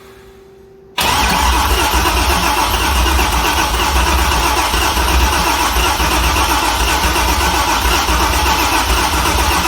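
A C6 Corvette's junkyard LS V8 cranking on the starter and trying to fire, starting abruptly about a second in and going on steadily. The engine does not settle into running: it is a no-start.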